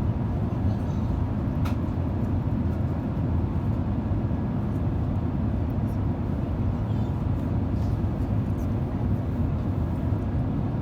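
Steady in-flight cabin noise of an Airbus A350, heard from inside the cabin: a deep, even rumble of airflow and Rolls-Royce Trent XWB engine noise, with a few faint ticks.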